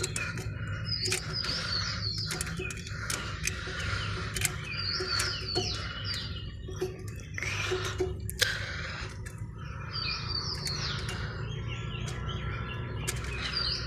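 Birds chirping in short phrases that recur about every four seconds, over scattered light metallic clicks and knocks from the rotating diode assembly being worked off an alternator's exciter, with a steady low hum underneath.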